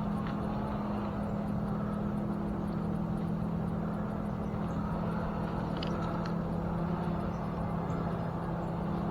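An engine running at a steady speed, giving an even, unchanging hum.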